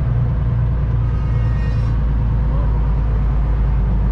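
Semi truck's diesel engine idling, a steady low rumble heard inside the stopped cab.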